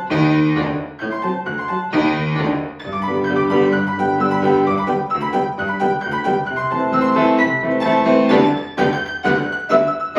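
Piano played four hands in a very fast piece with dense running notes. Loud chords strike at the start and again about two seconds in, and short detached chords hammer out near the end.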